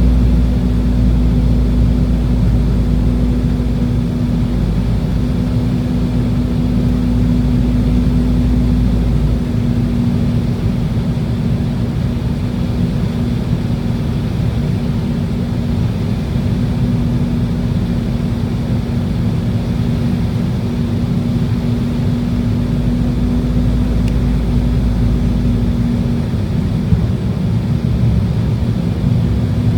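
Steady cabin noise of an Embraer E190 airliner in flight on approach: the drone of its GE CF34 turbofan engines and rushing air, with a steady hum over it. The deepest rumble eases about ten seconds in.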